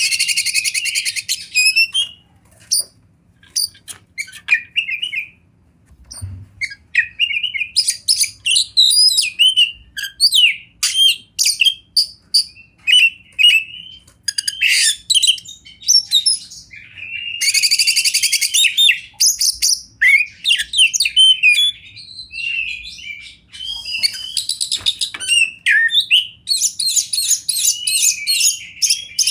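Oriental magpie-robin (kacer) singing a loud, varied song of whistled phrases and chirps, broken by fast buzzy trills near the start, about two-thirds through and again toward the end, with a quieter lull a few seconds in.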